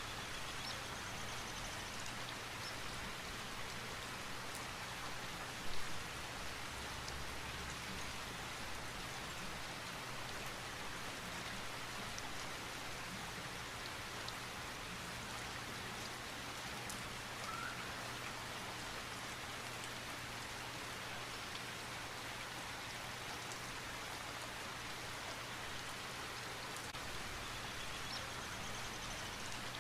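Steady rain falling, an even patter with one brief louder knock or pop about six seconds in.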